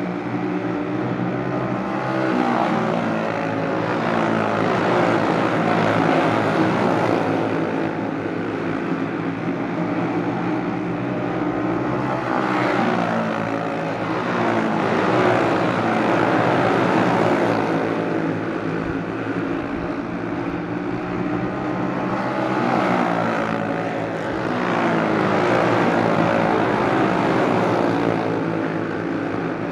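A pack of racing karts with Briggs & Stratton Animal single-cylinder four-stroke engines running flat out on a dirt oval. The engine noise swells and fades three times as the karts come past, about every ten seconds.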